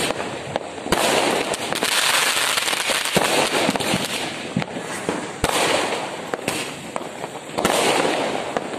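Aerial fireworks bursting overhead: sharp bangs about a second in and again at about five and a half seconds, amid long swelling stretches of fizzing, crackling noise from the burning stars.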